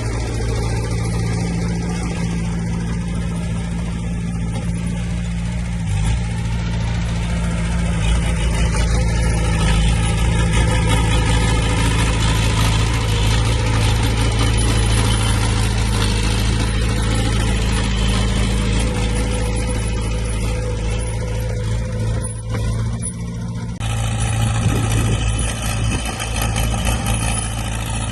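Heavy diesel engine of earthmoving machinery running steadily, with a low, even drone; its sound changes about 24 seconds in.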